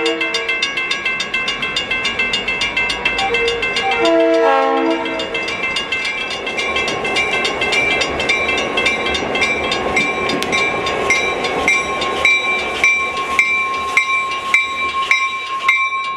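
A railroad grade-crossing bell ringing steadily while an EMD GP9 diesel locomotive's horn sounds in blasts at the start and again about four seconds in. The locomotive then passes through the crossing.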